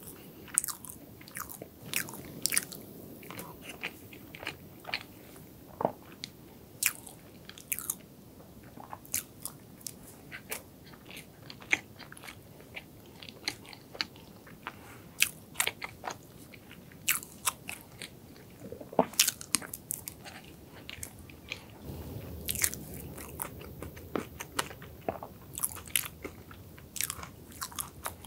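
Close-miked eating of chocolate cake: soft chewing with many sharp, wet mouth clicks, and now and then a fork cutting and tapping against the plate.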